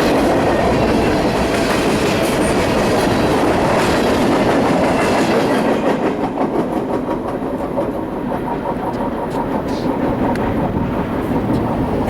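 BNSF train's cars rolling past at speed, wheels clicking over the rail joints in a steady run of clickety-clack. The noise eases slightly about halfway through.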